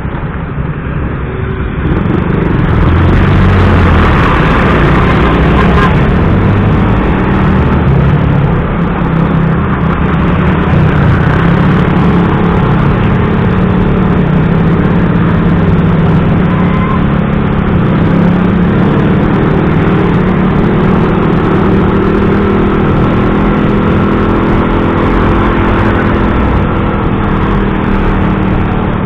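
A motorcycle engine running steadily on the move, with traffic noise from heavy trucks around it and slight rises and falls in engine pitch.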